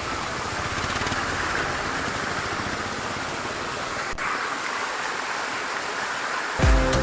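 Waterfall rushing: a steady noise of falling water. Music comes in near the end.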